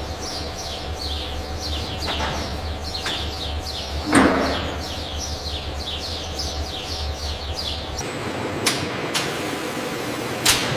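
Small birds chirping quickly over a low steady hum, with a few sharp knocks, the loudest about four seconds in. The chirping and hum stop about eight seconds in, and more knocks follow.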